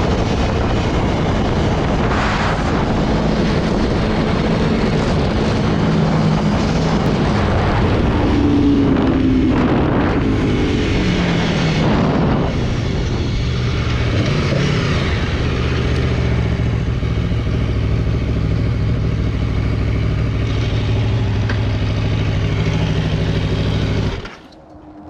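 Aprilia Tuono V4 1100's V4 engine running under way, its revs rising and falling between about 8 and 12 seconds in, then holding steady. The sound drops away sharply near the end.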